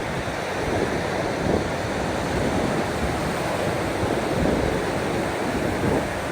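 Ocean waves washing steadily in an even rush of noise, with a few slightly louder swells.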